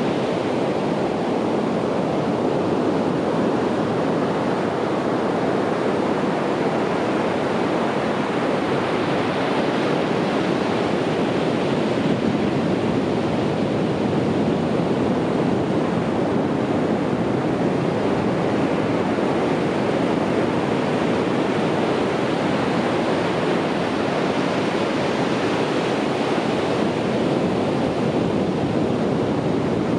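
Ocean waves breaking and washing up on a beach: a steady, continuous surf rush that swells and eases slowly.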